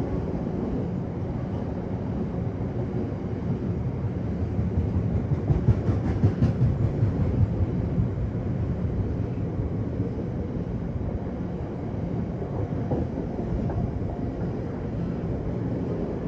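Freight train of Drax biomass hopper wagons rolling past, wheels rumbling and clattering over the rails, with a louder stretch of rhythmic wheel beats about five seconds in.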